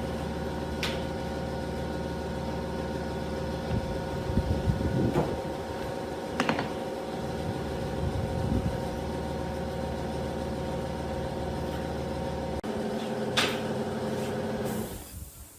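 A machine running with a steady hum, with a few sharp knocks over it, cutting off about a second before the end.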